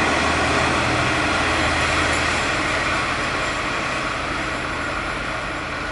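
Train passing close by: a steady rumble of wheels and running gear with a low hum underneath, slowly fading as it draws away.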